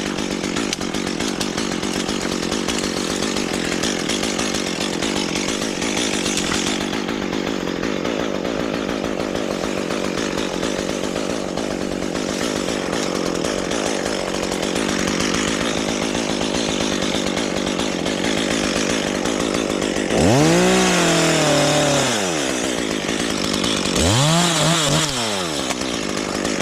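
Chainsaw cutting wood under steady load, then revved up and let back down twice near the end.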